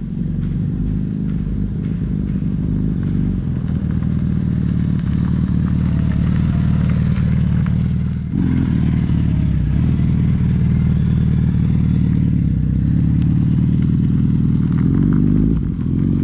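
Suzuki Hayabusa's inline-four engine running steadily while the bike is ridden, with a short dip in the engine note about eight seconds in.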